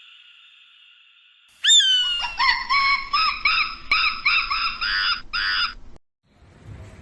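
A bird giving a rapid series of high, repeated calls, about three a second, after a sharp opening note just under two seconds in; they stop about a second before the end.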